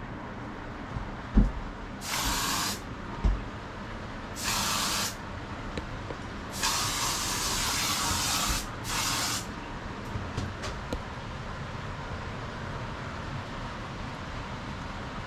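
Spraying hiss in four short bursts that start and stop sharply, the third the longest, with two dull thumps before them and a few light ticks after.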